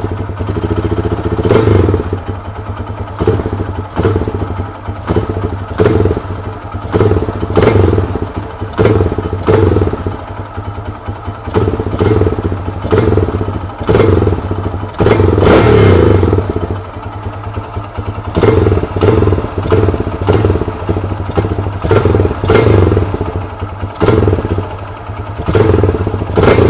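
Lifan 200 cc single-cylinder four-stroke motorcycle engine running, its throttle blipped again and again, about once a second. The PZ30 carburettor's accelerator pump is fully disabled, so the engine at times stumbles and bogs as the throttle is snapped open.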